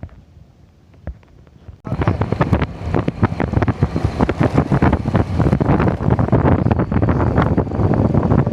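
Train running at speed: loud rushing wind on the microphone with a dense clatter of rattles. It starts suddenly about two seconds in, after a quiet opening.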